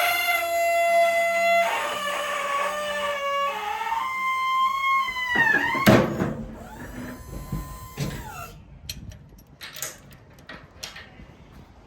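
Loud, metallic squealing at several shifting pitches, ending in a falling squeal and a heavy clank about six seconds in. A short steady whine and scattered clicks follow. This is the loading equipment at the truck's rear working: the dock plate and lift gate.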